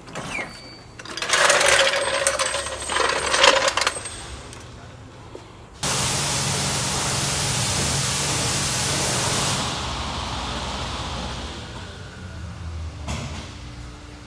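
Metal parts clattering and jingling for a few seconds. Then a loud, steady hiss of compressed air cuts in suddenly, runs for about four seconds and tails off.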